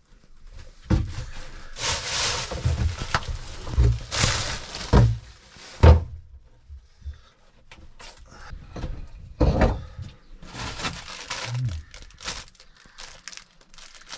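Things being moved and knocked about inside a small sailboat's cabin during clearing out: repeated thuds and knocks, with a few bursts of rustling and scraping.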